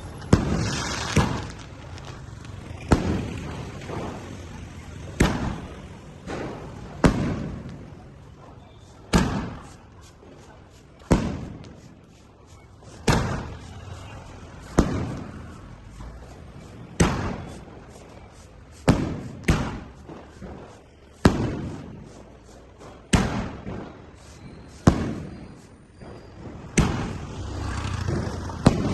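Blue Star 'Power Pack' firework going off shot after shot, a sharp bang about every two seconds, each ringing away, with fine crackling between some of the bangs.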